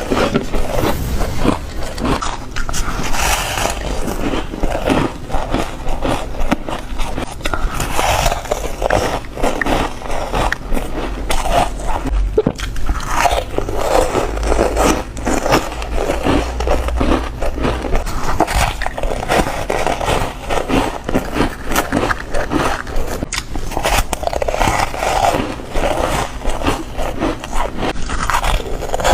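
Foam ice being bitten and crunched close to the microphone, a continuous run of crisp, crackly, squeaky crunches.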